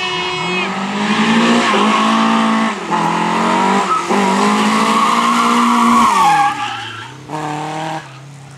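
Lada rally car's four-cylinder engine at high revs, climbing through the gears with short breaks at the shifts about three and four seconds in. Near the end the revs fall away as the throttle is lifted, with a brief blip. Tyres skid and scrabble under the engine.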